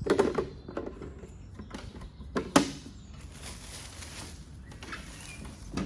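Plastic water tank being fitted into an espresso machine: scattered plastic knocks and clicks, the sharpest about two and a half seconds in.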